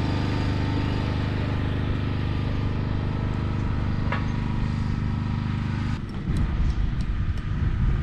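A vehicle engine running steadily. About six seconds in, the steady hum gives way to a rougher, uneven rumble.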